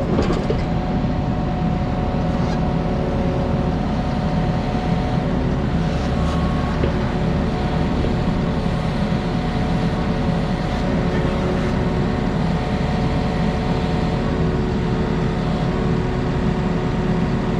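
Diesel engine of heavy construction equipment running steadily at an even speed, with a low rumble and a constant hum.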